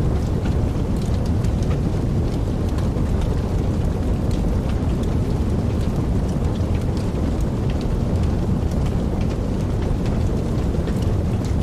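Wood fire burning in a fireplace: a steady low rumble of flames with many small, irregular crackles and pops scattered throughout.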